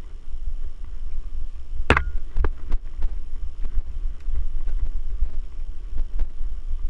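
Mountain bike ridden over rough trail: a low rumble of wind buffeting the microphone, with scattered sharp knocks and rattles from the bike, the loudest about two seconds in.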